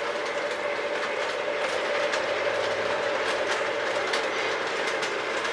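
Lionel O-gauge model train running around the layout: metal wheels clicking over the rail joints and track sections, with a steady hum from the locomotive.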